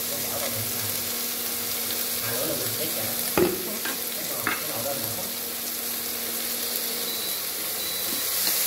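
Minced lemongrass and chilli sizzling in hot oil in a stainless steel wok, a steady frying hiss. A single sharp knock about three and a half seconds in, with a lighter click a second later.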